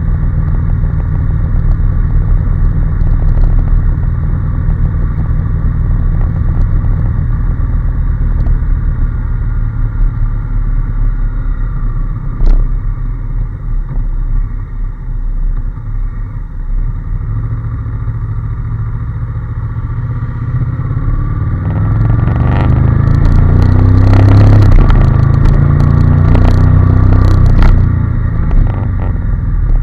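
Honda NC750S motorcycle's parallel-twin engine running on the move. About two-thirds of the way through it grows louder and rises in pitch as the bike accelerates, then eases off near the end.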